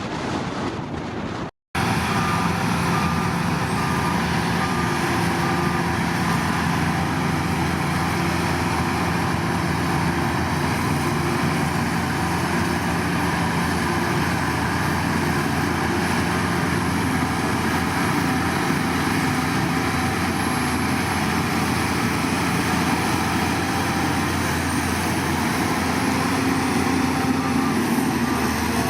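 Heavy diesel construction machinery running steadily, with a brief cut to silence about a second and a half in. A reversing alarm beeps faintly for a few seconds after the cut and again near the end.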